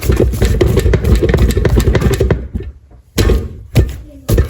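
Dense rustling and crackling with low thuds for about two seconds, then a few separate thumps about half a second apart, as risen bagel dough is handled in its bowl.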